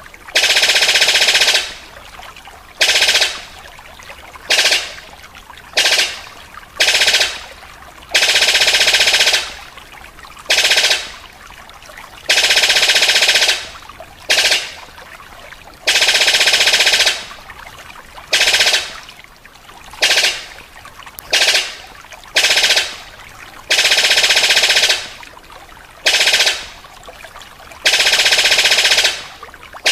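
A bird's rapid, buzzy rattling trill, repeated again and again in bursts of about half a second to two seconds with short pauses between, each fading away quickly.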